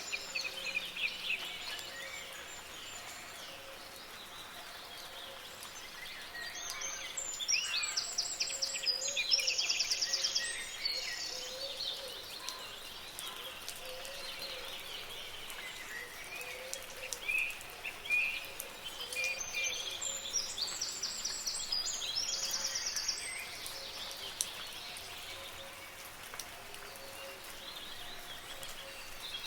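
Songbirds chirping and singing over a steady hiss of soft rain. A louder song of rapid high notes comes twice, about 7 seconds in and again about 20 seconds in.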